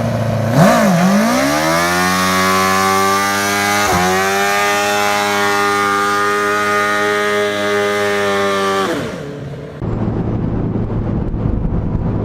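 Engine of a custom motorcycle-engined trike revving: the pitch dips then climbs to high revs, holds steady with a brief dip about four seconds in, and drops away near the nine-second mark. A lower, rougher engine running follows near the end.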